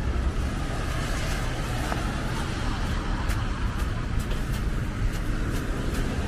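Steady rumble of road traffic on a city street, with faint short ticks recurring through it.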